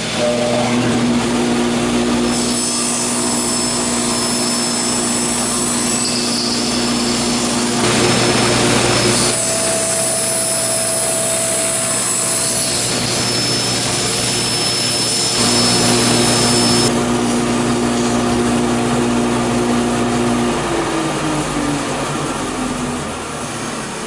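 Table saw running under power and crosscutting a piece of wood, with a noisier stretch about eight seconds in and another a little past the middle. Near the end the motor's pitch falls step by step as the blade winds down after switch-off.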